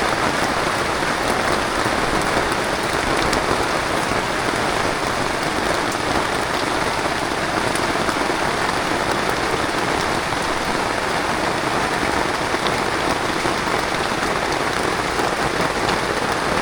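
Heavy rain falling steadily, an even hiss with occasional drops ticking.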